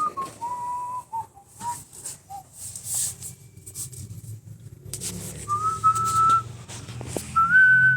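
A person whistling a short tune of held notes, over a low hum and a few light clicks and rustles.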